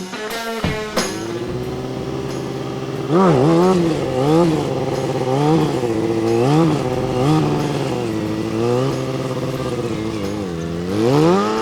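Kawasaki ZX-6R stunt bike's inline-four engine running at steady revs, then revved up and down about once a second in repeated throttle blips, steadying again before one more rise in revs near the end.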